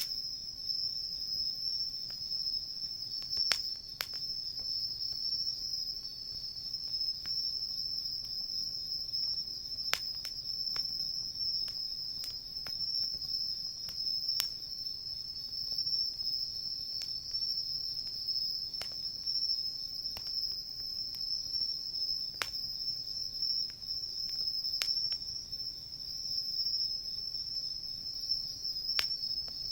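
Insects trilling steadily in a continuous high-pitched chorus, with sharp pops from a crackling wood fire every few seconds.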